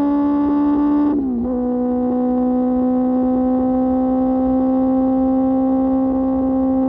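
QJ Motor SRK600's inline-four engine through an SC-Project exhaust, running at high revs under way. Its pitch drops sharply about a second in, then holds steady and creeps slowly upward.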